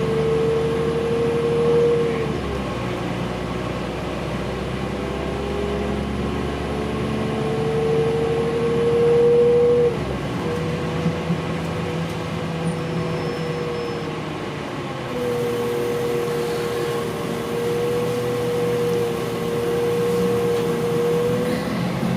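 Inside a Class 4000 diesel multiple unit on the move: the running noise of the train with a prominent whine that climbs slowly, drops abruptly twice (about two and a half seconds in and again about ten seconds in), then holds fairly steady.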